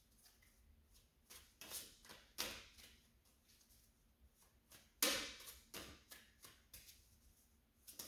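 Tarot cards being handled and set down on a table: a scattering of short swishes and taps, the loudest about five seconds in.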